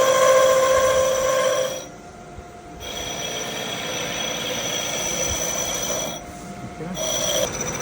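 A machine tool cutting metal on an engine block, giving a steady, ringing, high whine. The whine cuts out for about a second twice, once near the middle and once near the end.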